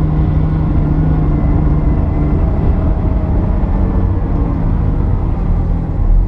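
1979 Porsche 930 Turbo's air-cooled, turbocharged flat-six running at speed on track, heard from inside the car over heavy road and wind rumble. Its pitch falls gradually through the middle.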